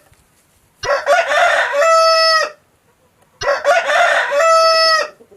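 Rooster crowing twice, each a long cock-a-doodle-doo that starts rough and ends on a held note.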